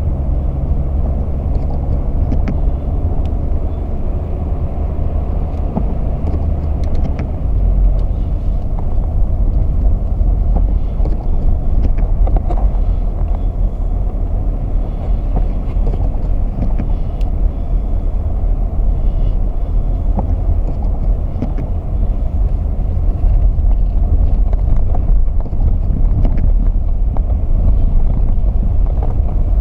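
Steady low rumble of a vehicle driving, deepening slightly about seven seconds in, with a few faint clicks.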